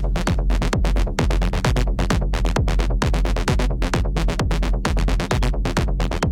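Techno music: a steady kick-drum beat over a deep, sustained bass line, with dense, fast percussion hits on top.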